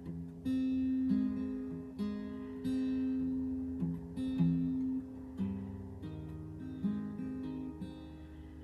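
Acoustic guitar played solo without singing: chords picked and strummed, with a new chord about every second.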